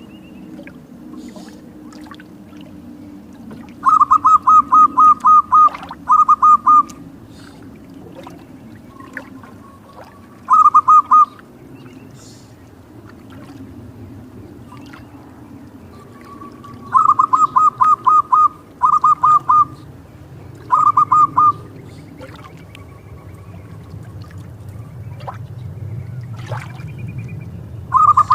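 Zebra dove (perkutut) cooing in repeated bursts of quick, clipped notes, each burst lasting one to two seconds, over a steady low background noise.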